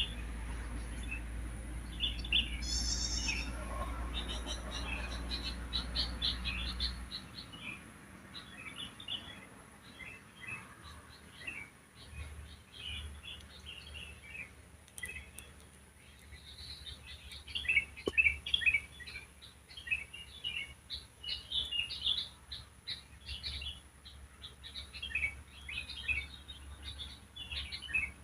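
Several wild songbirds chirping and twittering together in quick, short high notes. There is a thin steady high tone underneath and a low rumble that stops about seven seconds in.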